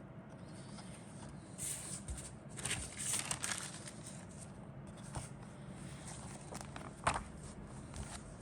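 Plastic packaging of model kit parts being handled, crinkling and rustling in a run of bursts from about a second and a half to four seconds in, then a single sharp click near the end, over a steady low hum.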